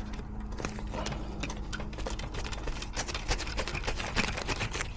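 Hand tool working the set screw of a zone damper motor: a quick, uneven run of small metallic clicks and taps as the screw is worked loose. A steady low hum runs underneath.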